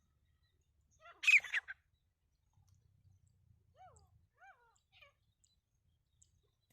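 Grey francolin calling: one loud, short burst of sharp notes about a second in, followed by a few fainter arching notes around the four-second mark.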